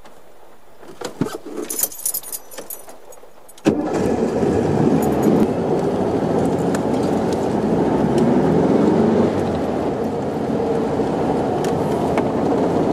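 Keys jingling and clicking at the ignition of a 1968 Volkswagen Beetle. About three and a half seconds in, its air-cooled flat-four engine starts abruptly and then runs steadily, heard from inside the cabin.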